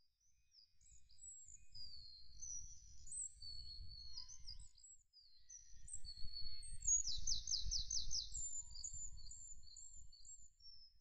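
Songbirds chirping and singing in many short, high phrases, with a quick trill of about six notes near the middle, over a faint low rumble.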